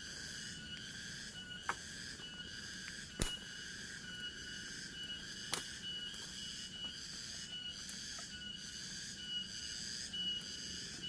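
Forest insect chorus: several high, steady, pulsing shrills layered together. Three sharp cracks stand out, about two, three and five and a half seconds in, the middle one loudest.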